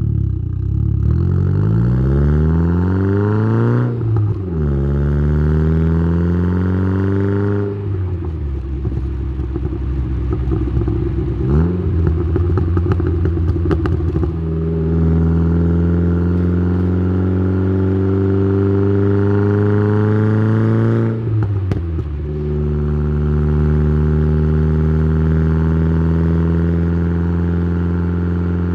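Exhaust of a tuned Saab 9-3's B204 2.0-litre turbocharged four-cylinder, with a TD04-19T turbo, 3-inch downpipe and Simons muffler, heard close at the tailpipe. The engine pulls up through the revs, drops at a gear change about four seconds in and pulls again, then comes off the throttle with crackling and clattering for several seconds before settling into a steady, slowly rising drone, with one more gear change later on.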